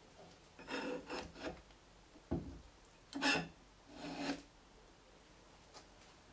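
Pipe clamps being set and slid into place across a glued-up wooden block: several scraping rubs of clamp pipes and jaws against the wood, a single knock about two seconds in, then two longer scrapes.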